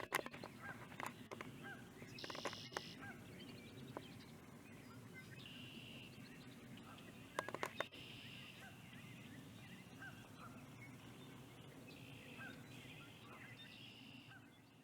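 Birds calling again and again over a faint steady background, with a few sharp clicks near the start and about halfway through; the sound fades out at the end.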